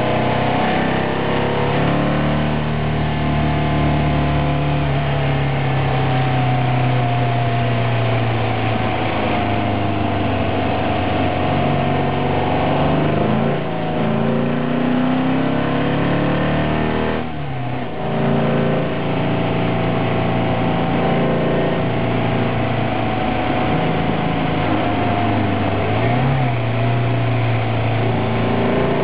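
Engine of the Road Rat, a VW-based sprint car, heard from its cockpit while lapping a racing circuit under hard throttle, its pitch rising and falling as it revs out and drops back. There are brief dips in the sound about 13 and 17 seconds in, where the engine note breaks off and picks up again.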